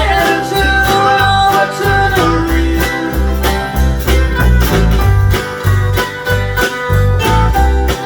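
Upbeat country band playing an instrumental passage between sung lines: plucked strings over a bouncing bass line with a steady beat.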